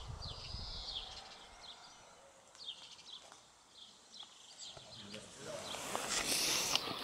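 Small birds chirping in short, repeated calls. There is a low rumble in the first second or so, and a rustling noise near the end.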